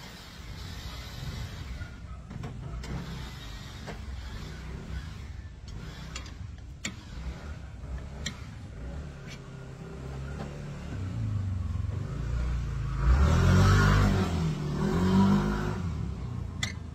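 A motor vehicle's engine rumbles steadily, grows louder and rises and falls in pitch a little past the middle, then fades. A few short, light clicks sound over it.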